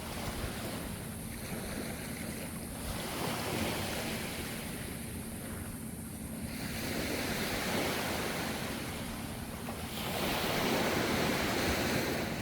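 Ocean surf: waves washing in and drawing back as a steady rushing noise that swells and eases, with a louder wave surging in near the end.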